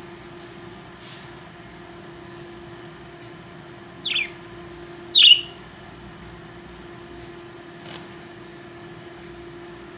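Pet parrot giving two short, sharp calls about a second apart, each falling steeply in pitch. A steady low hum runs underneath.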